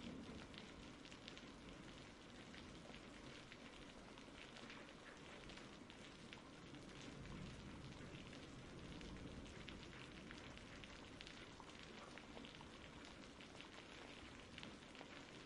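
Faint, steady rain, with many small drops pattering through it.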